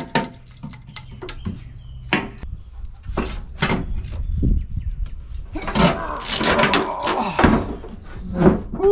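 Metal parts and hand tools knocking and clanking in a car's engine bay as the air-conditioning compressor is worked loose and lifted out: a string of sharp knocks, with a longer scraping, rattling stretch in the middle and a short squeak near the end.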